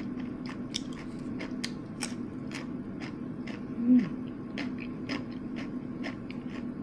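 Crunching bites and chewing of crispy homemade fries, with sharp crunches about twice a second over a steady low hum. A louder short low sound comes about four seconds in.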